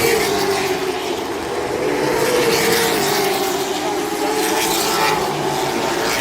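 Race car engines running on the track, a steady drone whose pitch wavers slightly up and down as the cars circulate.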